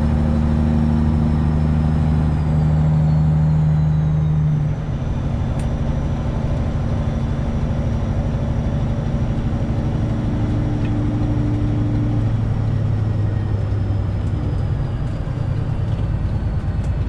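Straight-piped Detroit Diesel 12.7 in a Freightliner Classic XL semi truck running steadily under way. About five seconds in the engine note changes and the sound drops a little in loudness.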